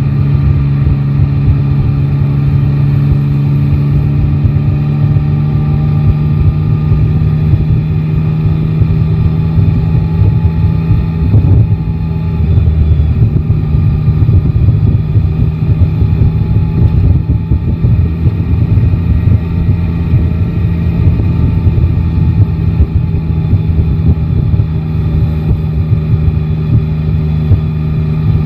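Yamaha Tracer 9 GT's three-cylinder engine running at a fairly steady engine speed while riding, over a rough low rumble.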